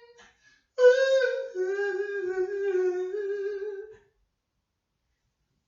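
A lone unaccompanied voice hums a long held note with a slight waver. It starts about a second in, drops a little in pitch partway through, and stops about four seconds in.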